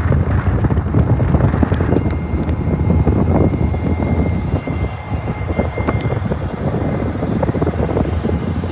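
A train passing close by: a heavy, steady low rumble with scattered clicks from the wheels and a faint thin squeal in the middle.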